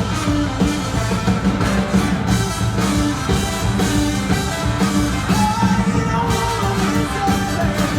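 Live rock band playing loud, with drums and sustained instrumental notes, and some singing.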